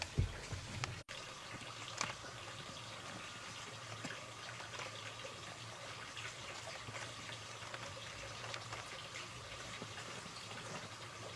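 Water running and splashing steadily, with scattered small clicks and a thump near the start.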